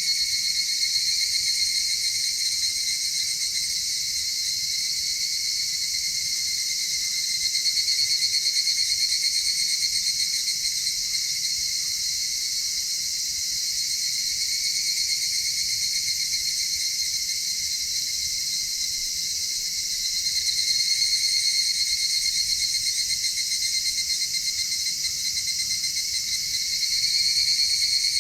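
Chorus of insects trilling steadily in a high-pitched, ringing drone, swelling a little louder every several seconds.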